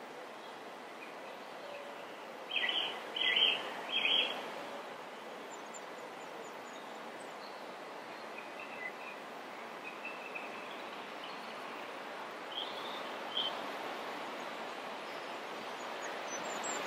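Small birds chirping outside, with three louder quick calls in a row about two and a half seconds in and scattered faint chirps afterwards, over a steady faint hiss of room tone.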